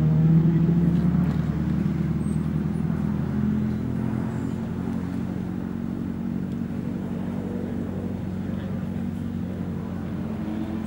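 Toyota Supra race car's engine revving out under acceleration, its pitch climbing near the start. It then drops back a little about four seconds in and runs on steadily as the car circulates the track.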